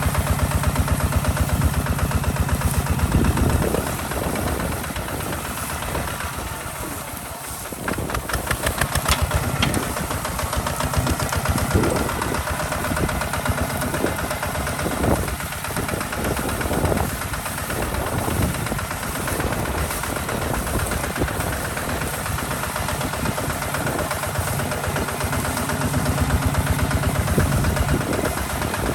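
Hinota HG Gold 155 DI tractor's diesel engine running under plowing load, its firing beat rising and falling as the load changes. It is loudest at the start, eases off about four seconds in, dips around seven seconds and picks up again a second later, then swells once more near the end.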